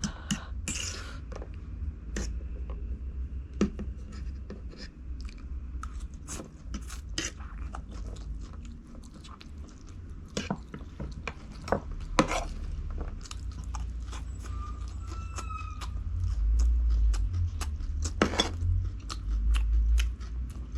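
Close-miked chewing and crunching of food: many sharp crunchy clicks from biting and chewing, over a deep low rumble that grows louder near the end.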